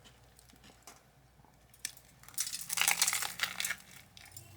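Close-up crunching of a broiler-toasted sandwich being bitten and chewed: a dense run of crackling crunches starting about two seconds in and lasting around a second and a half.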